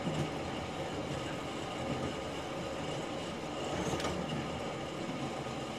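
Passenger carriage running along the track, heard from inside: steady running noise of the wheels on the rails, with a single sharp click about four seconds in.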